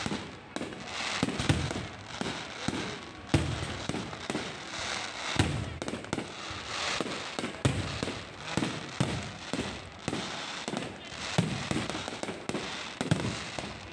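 Low-altitude fireworks going off in quick, irregular succession: sharp bangs and pops, several a second, with crackling and hiss between them and some deeper thuds.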